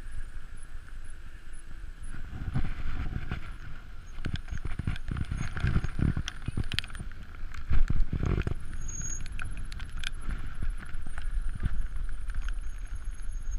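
Bicycle coasting along a road: a steady low rumble of tyres and air with frequent knocks and rattles over bumps, the sharpest a little past halfway.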